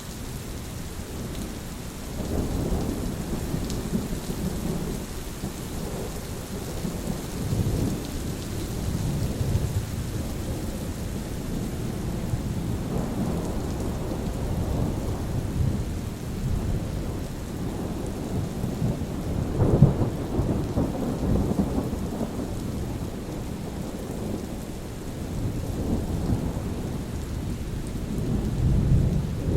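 Steady rain falling with rolling thunder rumbling low in the background, swelling several times, with a louder, sharper crack of thunder about twenty seconds in.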